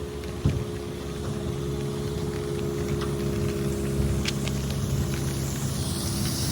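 An engine running steadily at idle: a low, even hum with a few faint clicks.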